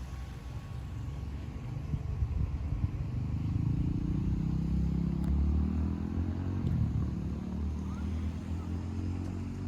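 A motor vehicle passing by: its engine grows louder over a few seconds, then slowly fades.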